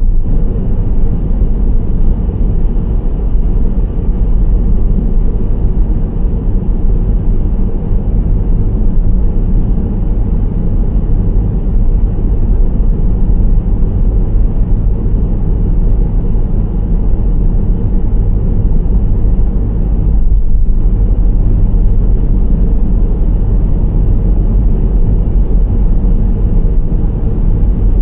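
Steady low road and engine rumble of a Nissan Serena C25 minivan cruising, tyres and drivetrain droning evenly, with a brief dip about twenty seconds in.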